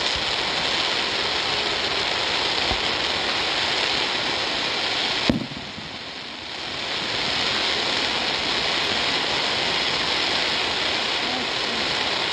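Fireworks giving off a steady, loud hissing crackle, with one sharp bang about five seconds in, after which the hiss briefly drops and then builds back up.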